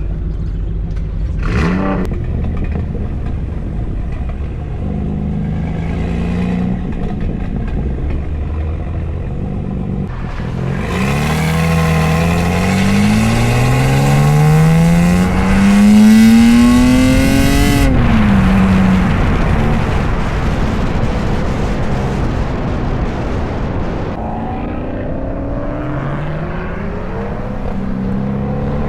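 Sports car engine accelerating hard, its pitch climbing steadily for several seconds from about a third of the way in, then dropping away suddenly. Shorter revs and engine sounds come before and after it.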